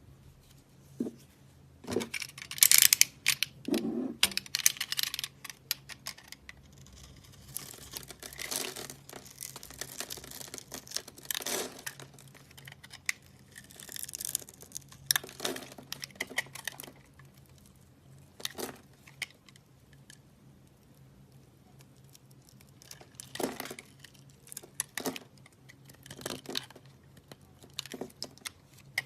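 Dry soap crunching and crackling as it is cut and crumbled, in irregular bursts of crisp crackles with short pauses between them.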